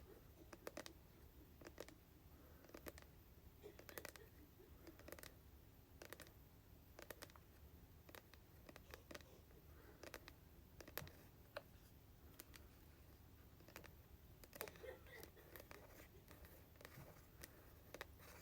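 Slow, quiet tapping on hair product containers: irregular sharp taps, about one or two a second, some with a short hollow ring.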